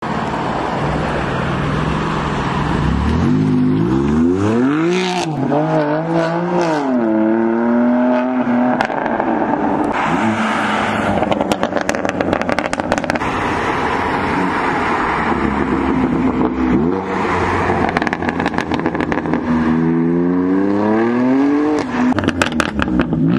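BMW M2 Competition's twin-turbo straight-six through a Remus Race cat-back exhaust, loud and deep, revving up and down several times. There are bursts of crackling pops in between the revs and near the end.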